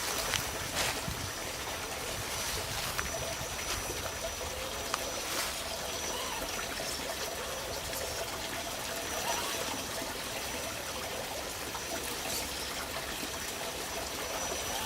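Water trickling steadily, with a faint high whine that comes and goes and a few light clicks.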